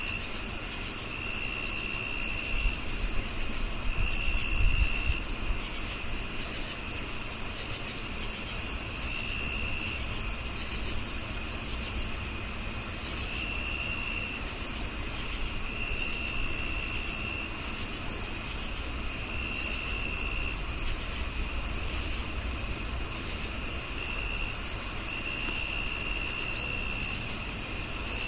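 Several crickets chirping together: one holds a continuous high trill, another chirps regularly about twice a second, and a third gives lower trills of about a second each, on and off. A brief low rumble comes through about four to five seconds in.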